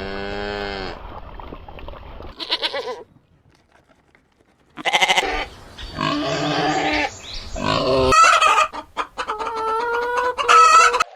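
Farm animals calling one after another: several separate pitched calls with short gaps, a quiet stretch about three seconds in, then a busier run of calls and clicks near the end.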